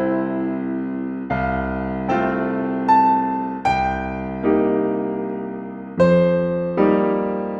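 Slow, calm solo piano music: soft chords struck about once a second, each left to ring and fade before the next.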